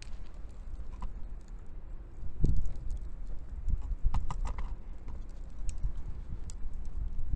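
Wood fire burning in a homemade pail-can and bucket secondary-combustion fire pit: scattered crackles and snaps over a low rumble, with a quick run of snaps about four seconds in.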